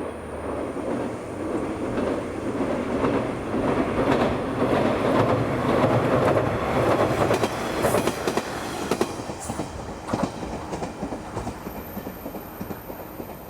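KiHa 110-series diesel railcar passing, its wheels clattering over the rail joints. The rumble swells to a peak about halfway, then fades as it moves away, with a run of sharp clicks partway through the fade.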